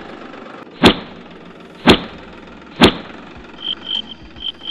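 Three sharp hits about a second apart over a low, steady engine-like hum, then a few short, high chirps near the end.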